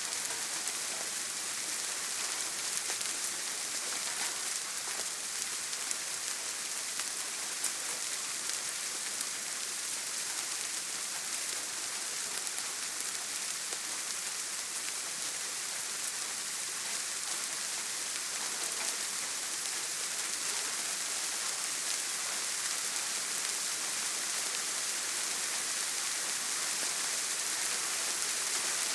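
Steady heavy rain drumming on a tin roof: an even hiss, mostly high in pitch, with fine scattered drop ticks.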